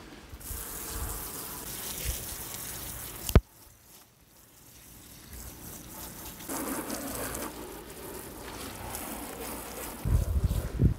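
Water running in a steady stream to rinse something, cut off with a sharp click about three seconds in, then a softer rush of water later. Near the end there is a low rumble of wind on the microphone.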